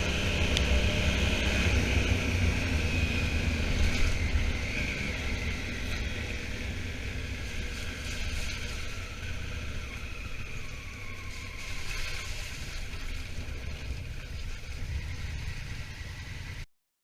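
Honda Africa Twin motorcycle riding along, its engine rumbling under wind noise; it eases off and gets quieter after about four seconds. The sound cuts off abruptly near the end.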